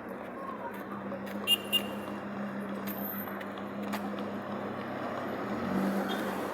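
A car engine running steadily at a constant pitch amid street noise, with two short high chirps about one and a half seconds in.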